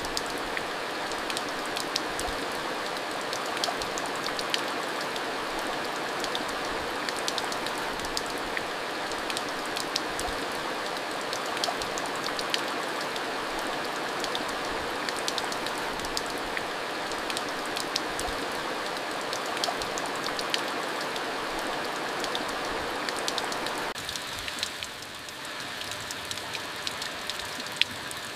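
Steady rain falling, with many individual drops ticking sharply through the hiss. The sound turns somewhat quieter and thinner near the end.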